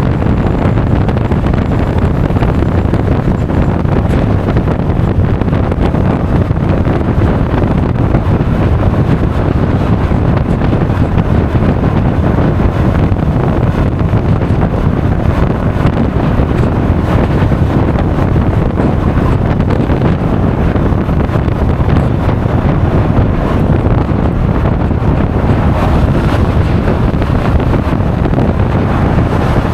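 Loud, steady wind buffeting an action camera's microphone on a Honda Forza 350 scooter at riding speed, with the scooter's engine and road noise blended underneath.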